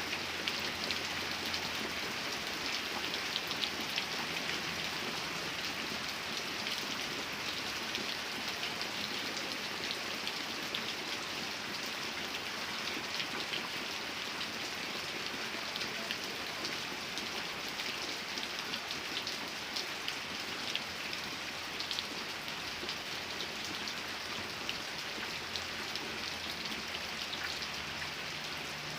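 Steady rain falling on a surface, a constant hiss dotted with many sharp individual drops.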